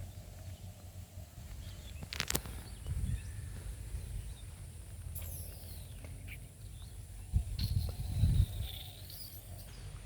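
Open-air ambience: wind buffeting the microphone with a low rumble that swells twice, a few faint high bird calls, and one sharp click about two seconds in.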